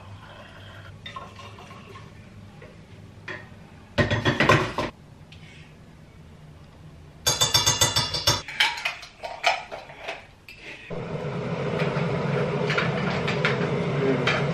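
Dishes and cutlery clattering in the kitchen, in two loud bursts of clinks and knocks. Near the end a steady noise comes in and grows.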